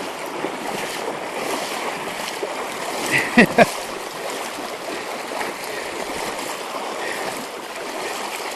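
Fast-flowing river water rushing steadily, with two short, loud, sharp sounds about three and a half seconds in.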